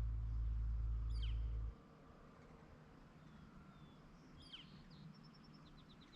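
Wild birds calling: two quick downward-sweeping calls, about a second in and again past four seconds, then a fast run of short high notes near the end. A low steady rumble, the loudest thing, lies under the first couple of seconds and cuts off abruptly.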